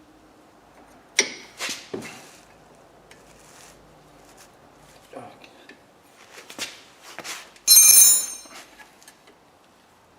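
Hand tools on a Chevrolet Cruze's front brake caliper bolts: scattered metal clicks and knocks while the bolts are loosened. About eight seconds in there is a loud, ringing metal clank, like a wrench or socket striking metal.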